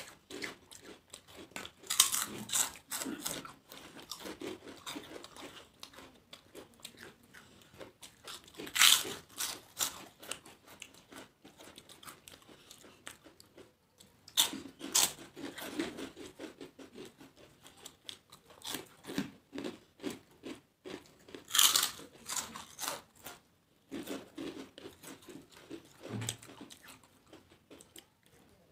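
Two people biting into and chewing crisp papads (poppadoms), a rapid irregular crackle of crunches. Several louder bites stand out every several seconds.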